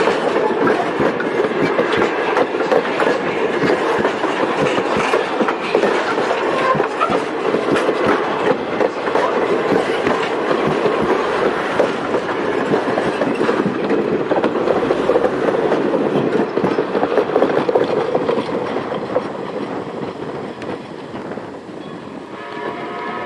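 A steam-hauled passenger train rolling past, its wheels clicking over the rail joints amid steady running noise, fading away over the last few seconds.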